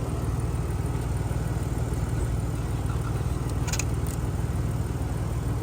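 Steady low hum of an idling engine, unchanging throughout, with two faint clicks about three and a half and four seconds in.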